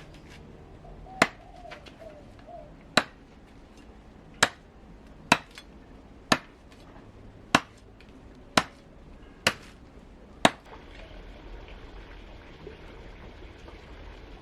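A series of about nine sharp knocks, roughly one a second and unevenly spaced, stopping about ten seconds in, followed by a steady hiss.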